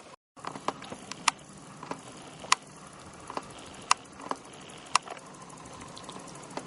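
Male bow-winged grasshoppers (Chorthippus latipennis) stridulating, rubbing hind leg against forewing: a series of short, sharp chirps at irregular intervals, the loudest roughly one a second.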